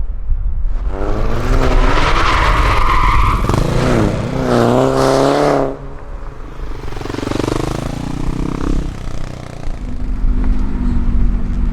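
A car accelerating hard with its tyres squealing, the engine revving up for about five seconds before cutting off. A second, shorter engine run-up follows, then a steadier engine drone near the end.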